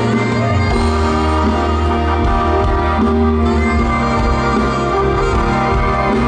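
Live band music through a concert PA, with a steady bass line under long sustained melody notes.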